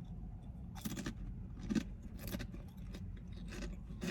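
A person chewing a Subway sandwich close to the microphone: several short, wet crunches and mouth sounds spaced irregularly.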